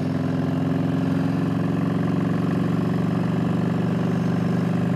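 Motorcycle engine running steadily at cruising speed, an even, unchanging drone, with wind rushing over it, heard from a microphone inside the rider's helmet.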